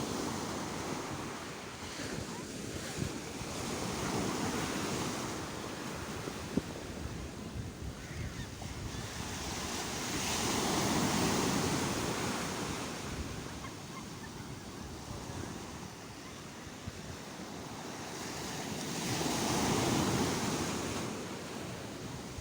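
Sea waves breaking and washing in, swelling to a loud surge about every seven to nine seconds and falling back between them.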